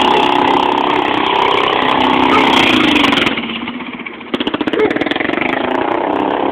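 Small gasoline engine of a mini monster-truck go-kart revving hard. About three seconds in it drops back to a quieter, fast putter near idle.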